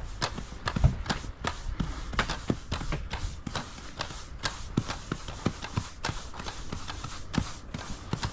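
Push brooms sweeping polymeric sand across paver stones: an irregular run of bristle scuffs and taps on the pavers, several a second, mixed with work-boot steps.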